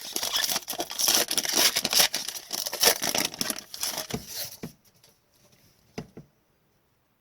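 Foil wrapper of an Upper Deck hockey card pack being torn open and crinkled: dense crackling rustle that stops suddenly after about five seconds, followed by a single light tap about a second later.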